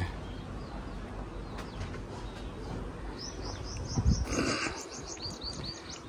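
A small bird chirping a quick run of short high notes, about five a second, for a couple of seconds in the middle. A dull thump comes just as the chirping starts.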